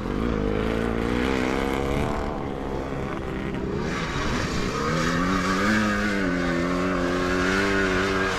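Sidecar motocross motorcycle engines revving on the track, their pitch wavering up and down with the throttle. One engine fades after about three seconds, and another comes up about four seconds in and stays loud.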